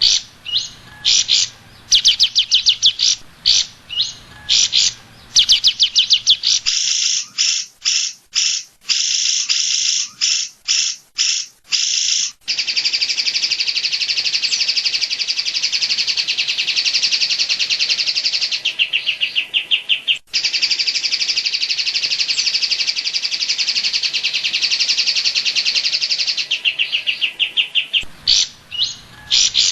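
Cucak ijo (greater green leafbird) singing high, rapid chattering bursts. About a third of the way in they run into one long, fast trill of repeated notes, broken once briefly, before short bursts return near the end.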